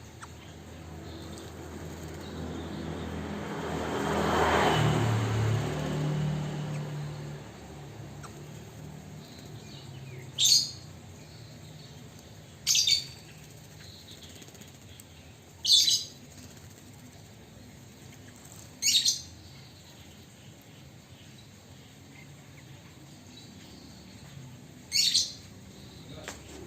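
A caged Chinese hwamei giving five short, sharp calls spaced a few seconds apart. Before the calls, a swell of noise with a low hum rises and fades during the first several seconds.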